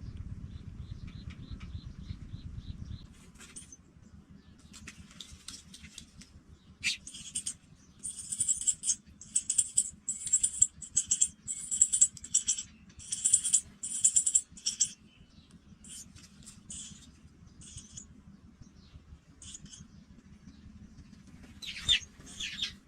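Pipit nestlings chirping in the nest: a rapid run of thin, high-pitched cheeps in bursts, loudest and densest in the middle. A low rumble fills the first few seconds.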